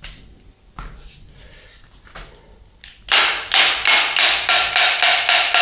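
Small hammer tapping on the metal housing of a peripheral water pump to loosen the joint sealed by its O-ring: a few light knocks, then from about three seconds in a fast series of ringing metal strikes, about four a second.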